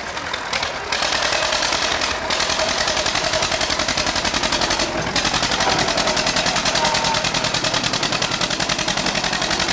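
A tractor engine running hard with a rapid, even exhaust beat, a fast rattling pulse.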